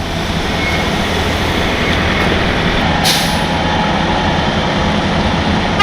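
Heavy diesel tow truck engine running steadily as the truck backs up, with a short air hiss about three seconds in, typical of an air brake release.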